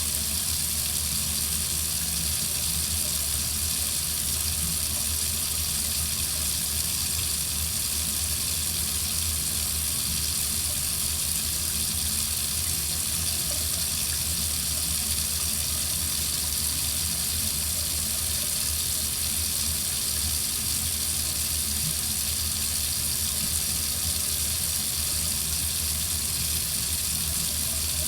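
Water running steadily from a faucet into a sink, a constant splashing rush with no change.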